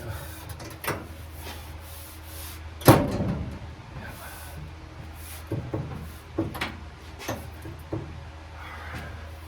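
A series of knocks and clunks, like parts or a door being handled. The loudest comes about three seconds in and rings on briefly, and a few lighter knocks follow. A steady low hum runs underneath.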